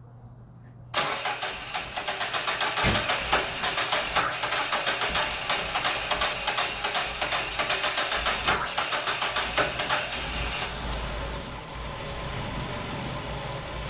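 Mazda Miata NB2's 1.8-litre four-cylinder engine cranking on the starter from cold. It starts about a second in with a long run of rhythmic pulses that grow louder, then catches about ten and a half seconds in and settles to a steady idle. It started on this first crank, just after a very long cranking, with its variable valve timing disconnected.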